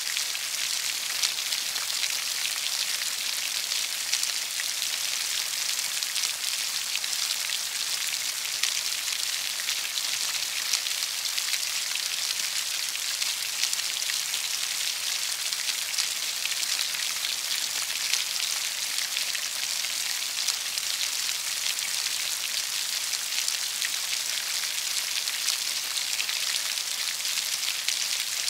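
Steady rain falling: an even, dense hiss with many small scattered drop ticks.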